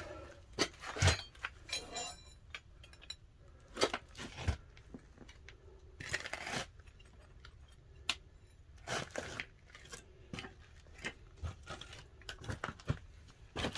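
Irregular knocks, cracks and clinks around a pine-wood-fired pottery kiln during firing, spaced a second or two apart.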